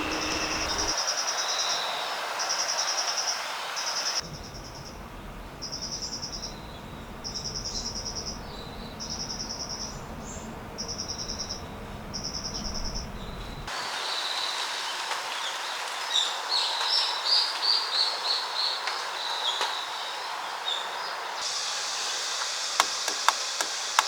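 Forest ambience over a steady hiss: an insect's buzzing call repeats in short bursts about every second and a half, then after a cut birds chirp in a quick series. The background changes abruptly several times.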